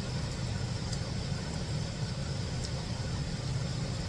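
Steady low mechanical rumble, like an idling engine, with a few faint ticks.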